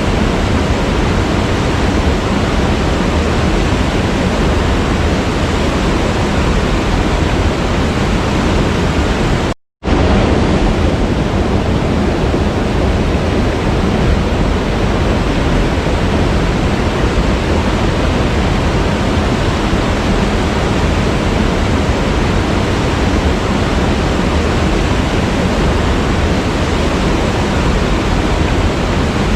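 Waterfall rushing steadily: an even roar of falling water. About ten seconds in, it cuts out abruptly for a split second, then resumes.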